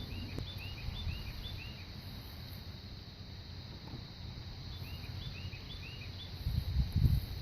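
A songbird singing a quick run of short, arched chirps, heard twice a few seconds apart, over a low rumble that swells briefly near the end.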